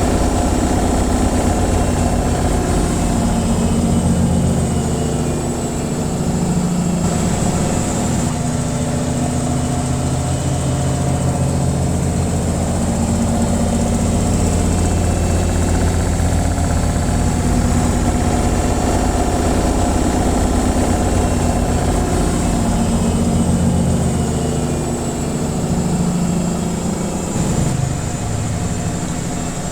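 Washing machine on its spin cycle, running steadily: a loud low hum of the motor and spinning drum, with a faint high whine above it.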